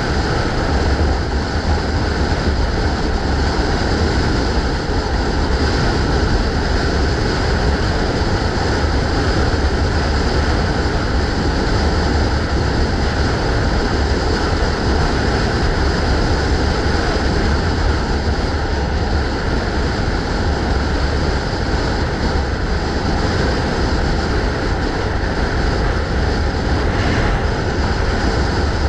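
Steady wind rush and low rumble on the microphone of a moving bike, with road noise.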